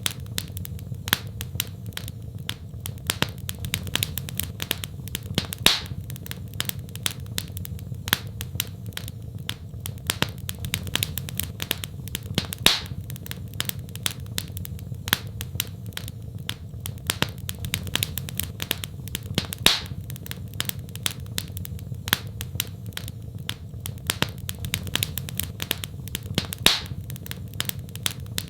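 Wood fire crackling in a fireplace: a constant run of small snaps with a louder pop about every seven seconds, over a steady low rumble.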